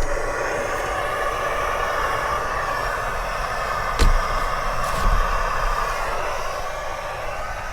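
Compact camp gas stove burner running steadily with an even roar, starting abruptly, with two light knocks about four and five seconds in.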